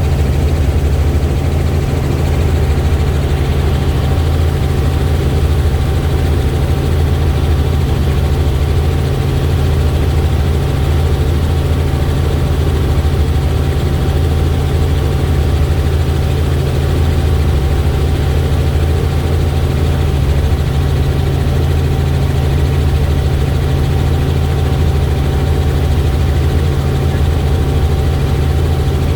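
Helicopter in flight: the steady, loud drone of its engine and rotor, with a low hum that holds one pitch throughout.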